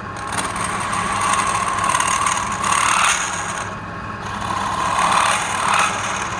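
Wood lathe running with a steady motor hum, while a tool works the spinning wood in repeated passes that swell and fade every second or two.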